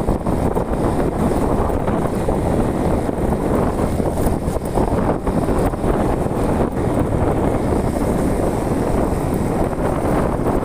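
Steady wind rushing over the microphone of a moving vehicle, with the vehicle's engine running underneath.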